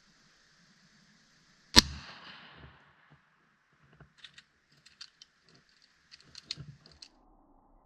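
A single shotgun shot about two seconds in, its report echoing away over about a second. Faint clicks and rustles follow near the end.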